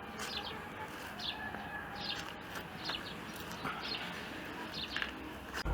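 Small birds chirping: short, sharp, downward-sweeping chirps repeating a little over once a second.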